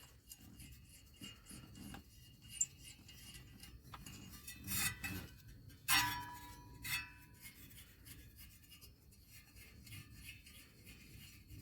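Faint scraping and rubbing of hand tools on engine parts, with a few light metal clicks; one clink about six seconds in rings briefly.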